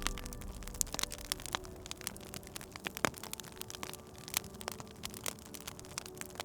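Wood fire crackling: irregular sharp pops and snaps, several a second, with a louder pop about three seconds in, over faint sustained low tones.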